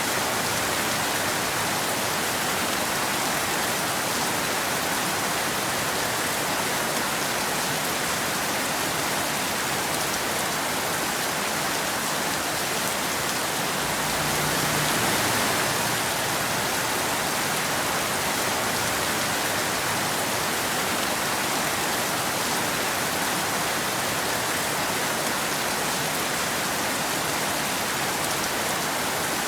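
Steady rain falling in a continuous even hiss, swelling slightly about halfway through.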